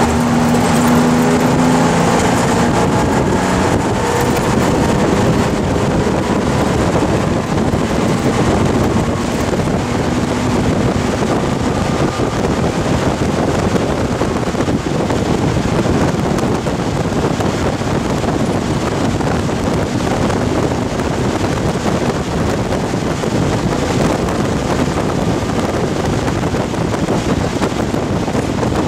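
A 1971 Porsche 911T's air-cooled flat-six engine running hard at racing speed, heard from inside the cabin with heavy wind and road noise. The engine's tone stands out clearest in the first few seconds, then blends into a steady roar of engine and wind.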